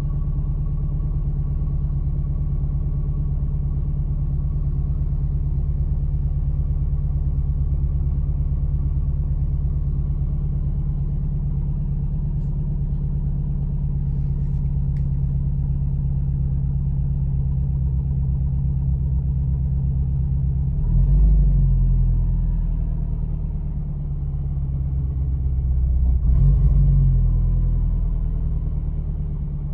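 Subaru Impreza's freshly swapped JDM flat-four engine idling steadily, then revved briefly twice in the last third and settling back to idle between the blips.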